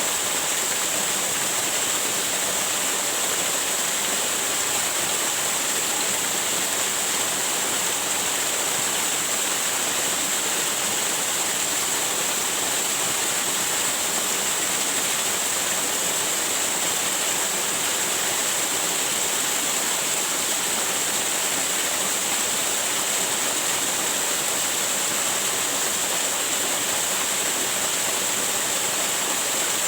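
Waterfall rushing steadily, an even, unchanging wash of water noise that is strongest in the high hiss.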